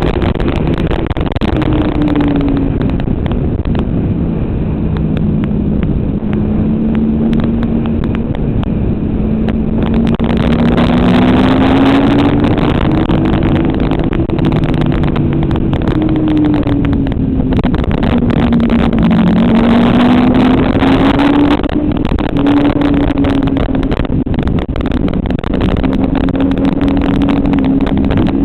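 Motorcycle engine running hard at track speed, its pitch rising and falling again and again as it accelerates and slows, over a steady rush of noise.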